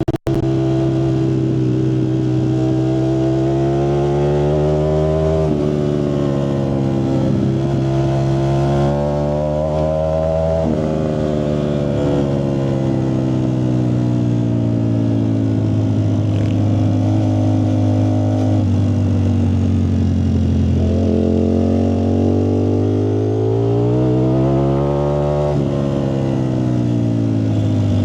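Ducati Streetfighter V4S's V4 engine through a Zard exhaust, running hard. It climbs in pitch and drops sharply twice, about five and ten seconds in, like gear changes under acceleration, then winds down slowly, and climbs and drops once more near the end.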